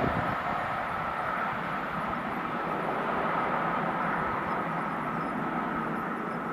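Electric passenger train receding into the distance after passing, its rumble slowly fading, with a steady high tone over it.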